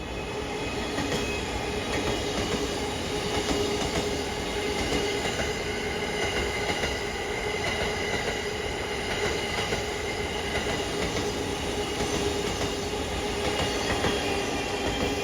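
E001-series Train Suite Shiki-shima passing through a station, its wheels clattering over the rail joints, with a steady whine over the rumble.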